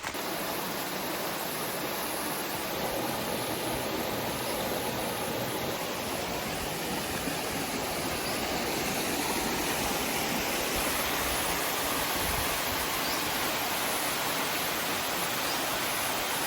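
Small creek's water rushing steadily over rocks, growing slightly louder about halfway through.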